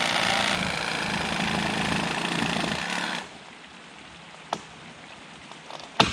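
Reciprocating saw (sawzall) cutting through a downed tree trunk, running until about three seconds in and then stopping abruptly. A light click follows, and a sharp knock comes near the end.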